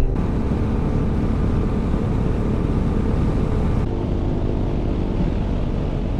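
Adventure motorcycle engine running steadily at cruise while riding, mixed with a steady rush of wind and road noise.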